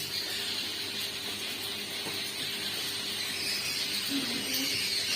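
Steady hiss of light monsoon drizzle falling.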